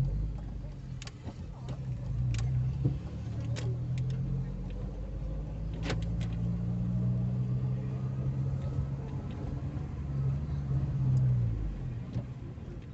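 Car engine running as the car drives, heard from inside the cabin: a steady low hum that rises gradually in pitch and drops away near the end. A few sharp clicks come in the first half.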